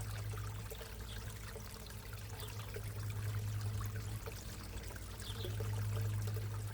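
Water pouring and trickling steadily in a backyard koi pond, over a steady low hum, with a few faint short high chirps.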